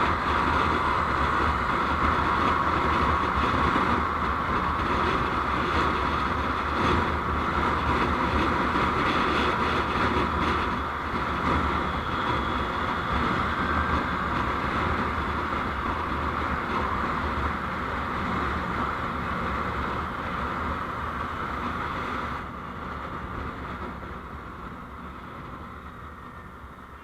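Steady road and wind noise of a moving vehicle. It grows gradually quieter, drops suddenly about 22 seconds in, then keeps fading as the vehicle slows.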